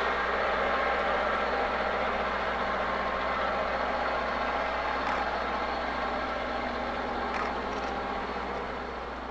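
Diesel locomotive engines running steadily, slowly fading.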